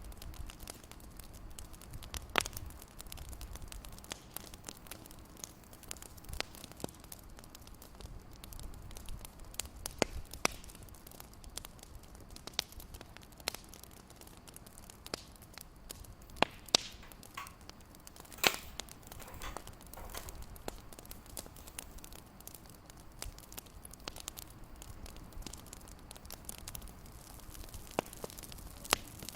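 Wood fire crackling in a fireplace: irregular sharp pops and snaps over a steady hiss, the loudest snap about eighteen seconds in.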